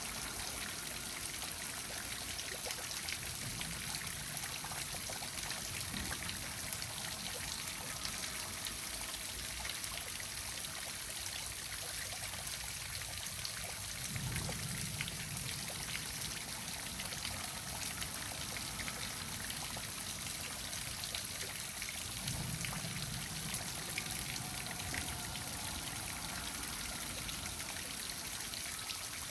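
Waterfall splashing steadily, a continuous rush of pouring, trickling water, with a few brief low swells.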